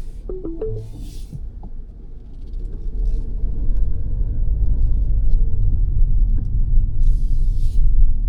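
Low-speed road and engine rumble inside a 2022 Mazda 3 saloon's cabin, dipping about a second in and building again from about two and a half seconds. A few short tones sound near the start, with brief bursts of hiss over the rumble.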